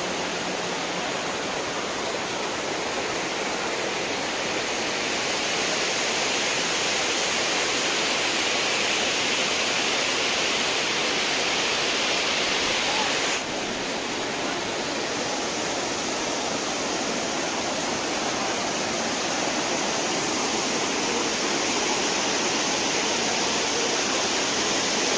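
Steady rushing of a waterfall, water pouring over a rocky ledge, with an abrupt small shift in its sound about halfway through.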